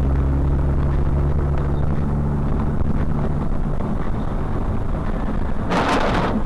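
Car engine and road noise picked up by a dashcam, with a steady low engine hum that fades about three and a half seconds in. Near the end comes a sudden loud burst of noise lasting about half a second.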